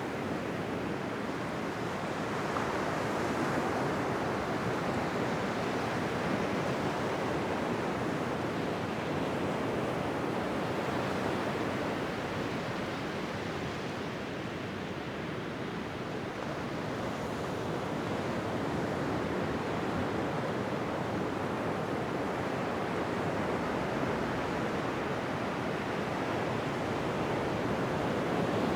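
Ocean surf: a continuous wash of waves that slowly swells and eases, dipping a little about halfway through.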